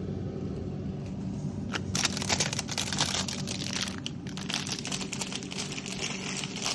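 Plastic food packaging crinkling, with clicks and knocks, as frozen items are moved about in a freezer, starting about two seconds in. A steady low hum runs underneath.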